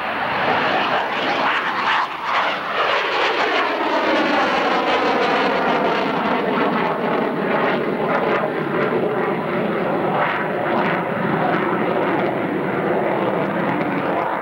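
CF-18A Hornet's twin General Electric F404 turbofan jet engines in a loud fly-by. From about a second in to about six seconds in, the sound sweeps down in pitch with a phasing whoosh as the jet passes, then settles into a steady jet rumble.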